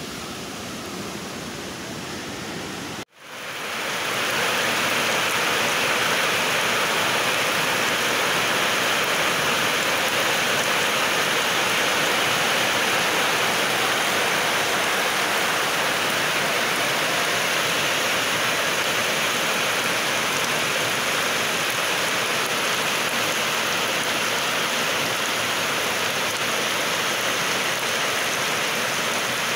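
Heavy rain falling steadily on a muddy field, with runoff water streaming over the ground: an even hiss. It cuts out briefly about three seconds in, then comes back louder.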